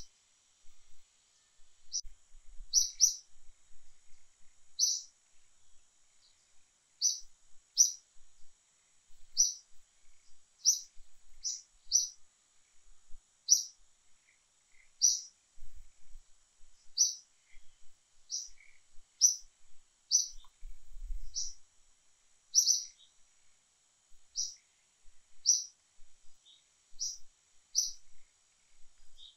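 A bird repeating a short, high chirp over and over, irregularly about once a second, sometimes two in quick succession.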